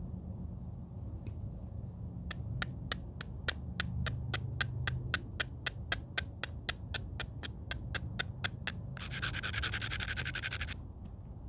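Flintknapping: stone being worked against stone, a steady run of sharp clicking taps at about four a second. These are followed by about two seconds of gritty scraping along the edge of the piece.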